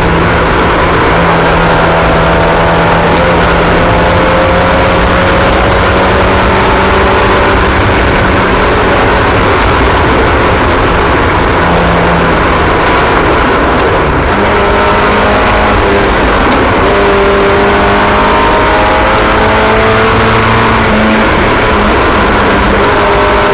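Several race-car engines running together on track, their pitches rising and falling as the cars accelerate and lift.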